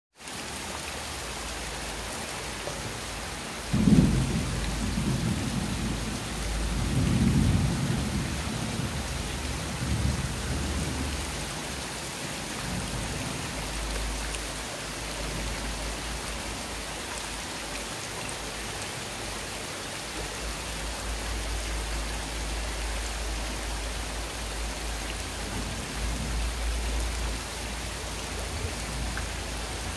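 Rain falling steadily on a wet concrete courtyard floor and potted plants, a constant hiss. About four seconds in, a sudden clap of thunder rolls on in low rumbles for several seconds, and a fainter rumble comes near the end.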